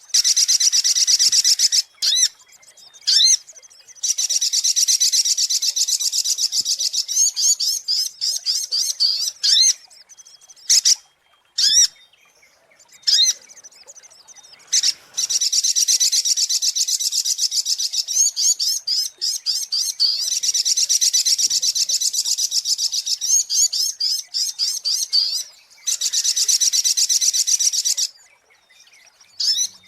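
Sogok ontong (little spiderhunter) calling: long runs of rapid, high-pitched chirps repeated many times a second, broken by a few short pauses.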